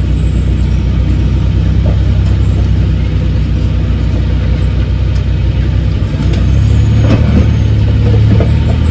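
A heavy construction machine's diesel engine running steadily, then revving higher and louder about six seconds in, with a few faint metallic knocks.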